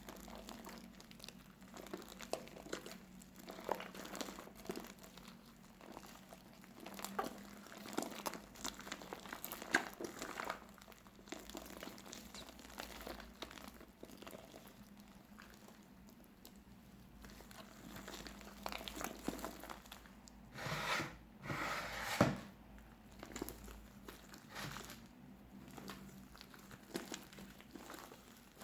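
Fluffy slime made from clear glue and shaving foam being squeezed and kneaded by hand, giving irregular small crackles and squishing clicks, with a louder flurry a little past two-thirds of the way through.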